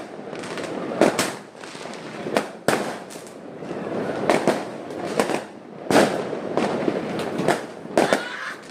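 Fireworks going off: a string of about ten sharp bangs at irregular intervals, over a continuous noisy hiss.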